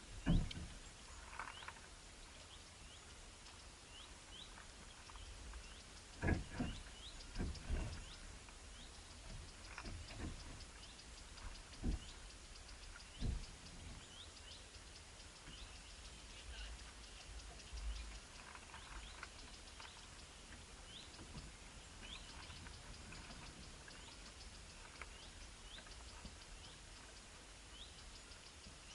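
Small birds chirping, with many short rising calls repeated every second or so. Several sharp thumps or knocks come in the first half.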